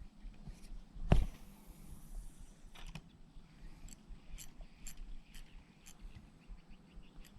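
A fishing cast on a baitcasting reel: a sharp swish about a second in, then about a second of high hiss as line pays off the spool. After that the reel gives faint regular clicks, about two a second, as the lure is worked back.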